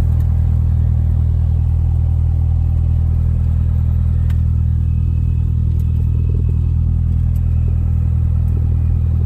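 Cessna 172 light aircraft's piston engine and propeller running with a steady, even drone.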